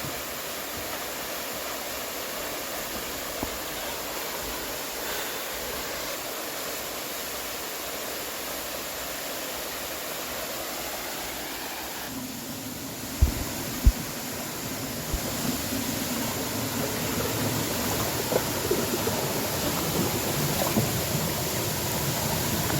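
Steady rush of flowing water from the river and waterfalls. Two brief thumps a little past halfway, and the rush grows louder toward the end.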